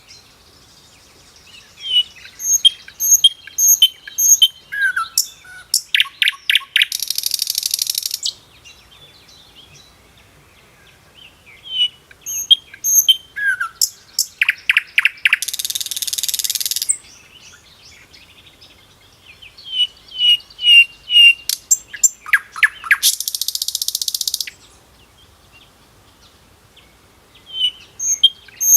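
Bird calling in repeated bouts. Each bout holds high chirps, a short falling note, a rapid rattle, and then a harsh buzzy trill about two seconds long. The same sequence comes three times, about eight seconds apart, with quiet gaps between.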